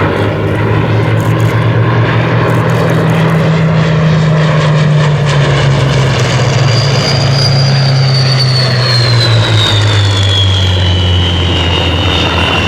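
Rolls-Royce Merlin V12 piston engine of a warbird flying past, running loud and steady. About two-thirds of the way through, its note drops in pitch as the aircraft passes, and a high whine glides down with it.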